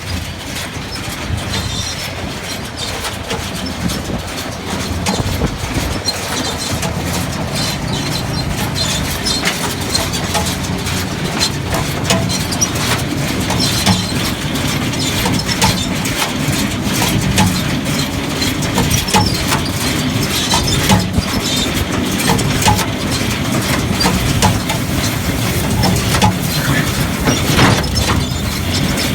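Case 133 hay baler running, its machinery clattering with frequent sharp clacks over a steady low engine drone.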